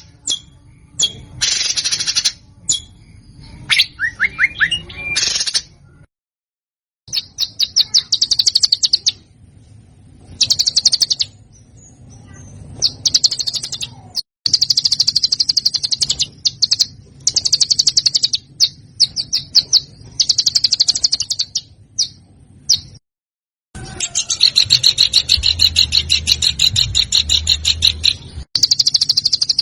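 Songbird song for masteran training: loud, fast, harsh trilled phrases repeated in bursts, broken twice by a sudden second of dead silence.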